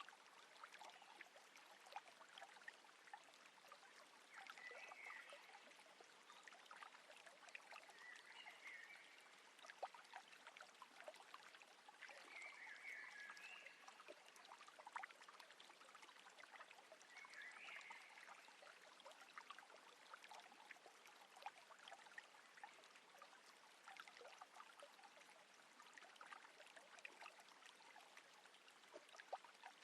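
Faint water lapping and trickling against a small boat on calm water, full of tiny splashes and drips, with four short, faint high chirps in the first half.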